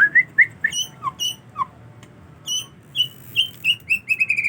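Male white-rumped shama singing: a run of short, clear whistled notes, mostly quick upward slurs with a couple of lower falling ones, quickening about three seconds in and ending in a held high whistle.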